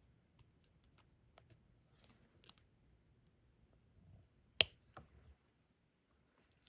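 Small scattered clicks and taps of a diamond-painting pen picking up resin drills and pressing them onto the canvas, with one sharper click about four and a half seconds in.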